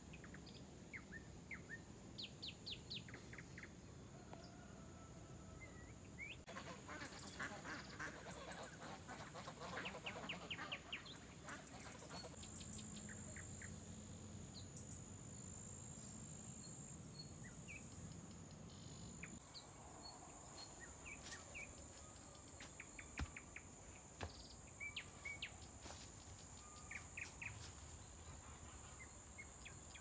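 Faint birdsong: scattered short, high chirps and calls, with a run of fast, rapid-fire calls from about seven to twelve seconds in. A steady high whine runs underneath.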